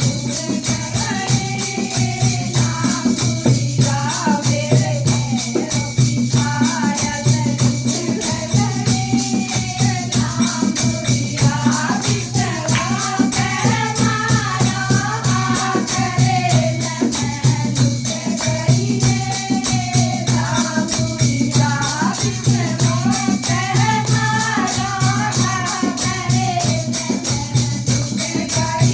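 Languriya bhajan, a North Indian folk devotional song: singing over a fast, steady rattling percussion beat.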